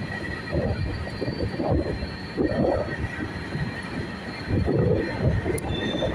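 Passenger train rolling along the rails, heard from its open coach doorway: an uneven rumble with irregular clattering from the wheels, and a faint steady high whine over it.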